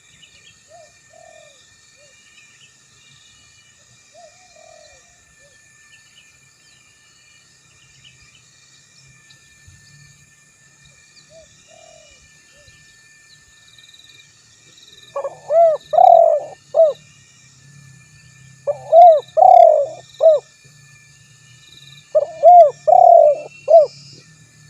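Spotted dove (tekukur) cooing: a few faint calls early on, then three loud phrases of several quick rising-and-falling coo notes in the last ten seconds. Faint high chirping of other birds runs underneath.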